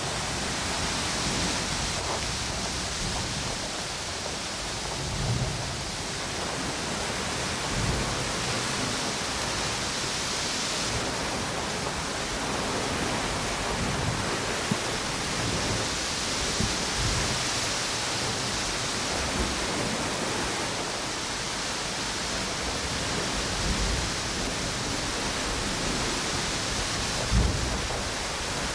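Strong wind blowing through palm trees over the steady wash of ocean waves on a beach, with a few short low thumps from gusts.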